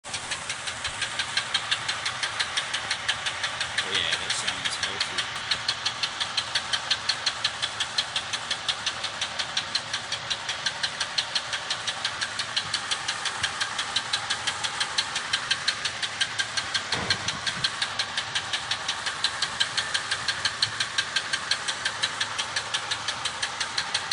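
Chevrolet engine running with a loud, steady knock about three times a second: rod knock, the sign of a worn connecting-rod bearing.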